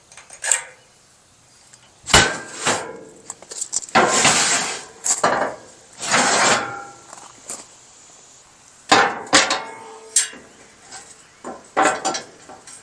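Metal trailer loading ramps being pulled out and set in place: a string of sharp clanks, some ringing briefly, with scraping in between.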